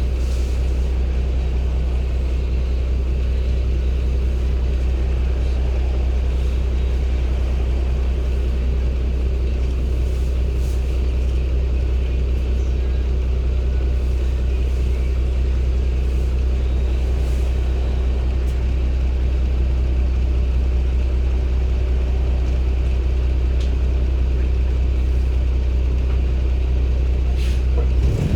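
Daewoo BS090 bus's Cummins ISB Euro 6 diesel (280 PS) running with a steady, unchanging low drone, pitch holding constant throughout. Air conditioning off.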